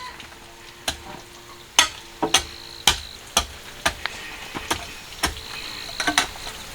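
Irregular sharp knocks and clicks, about one or two a second, over a gritty scraping hiss.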